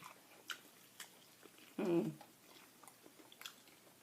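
Close-up chewing and biting of fried chicken, with small wet clicks of the mouth. About two seconds in, the eater makes one short hum.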